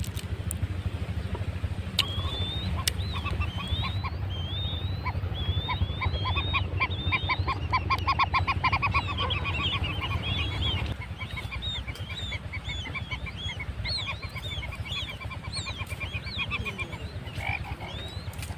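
Quail chicks calling for their mother when lost: a rapid series of short, high peeps that slide up and down, several overlapping, with a quick trill around the middle. A low background rumble stops about halfway through.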